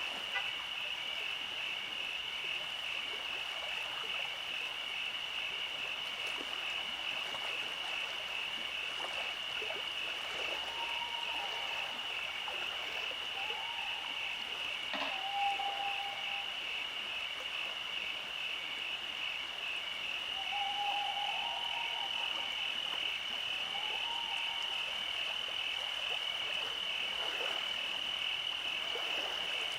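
Night chorus of frogs: a dense, steady high trilling with a fine pulsing rhythm, and a few short lower calls breaking in around the middle.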